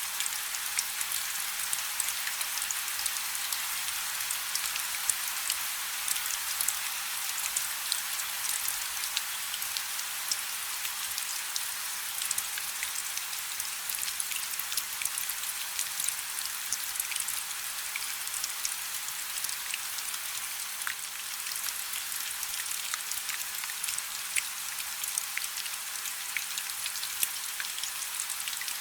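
Steady rain falling on a river: an even hiss of countless small drops, with individual drops ticking sharply all through.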